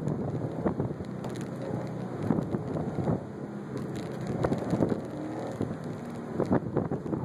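Inside the cabin of a 2004 Subaru WRX STI being driven through an autocross course: its turbocharged 2.5-litre flat-four engine running under load, mixed with tyre and wind noise into a rushing sound that rises and falls unevenly.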